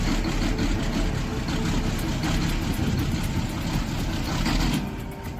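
LAZ bus engine running rough just after a hard cold start at −10 °C, choking and sputtering. The engine sound is steady, then drops away briefly near the end.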